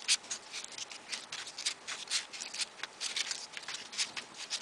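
Folded paper triangle modules being handled and pushed into place on a modular origami model: a quick run of crisp paper rustles and small clicks, several a second.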